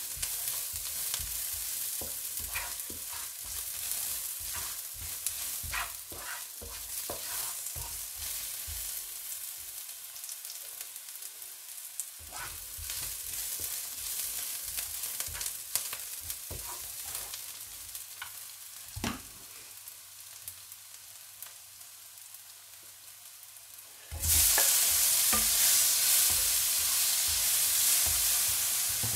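Sliced shallots sizzling in a little oil in a nonstick wok, a wooden spatula scraping and stirring them. About 24 seconds in the sizzle suddenly gets much louder as chopped tomatoes hit the hot oil and steam.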